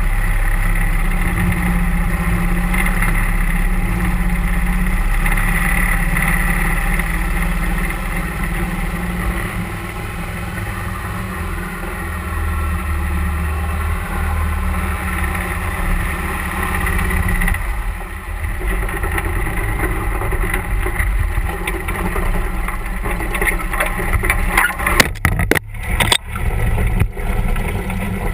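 Mud Buddy Hyperdrive 31 hp surface-drive mud motor running steadily, pushing a duck boat up a creek. Near the end, a few sharp bangs as the boat hits trees.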